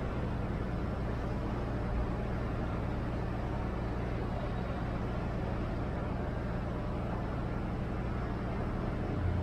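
Steady low diesel engine drone, a deep even hum that does not change in pitch, with a brief low thump about two seconds in and another near the end.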